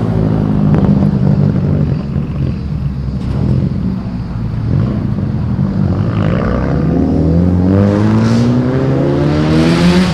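Car engine running loud as a car rolls out. Over the last few seconds it revs up, its pitch climbing steadily.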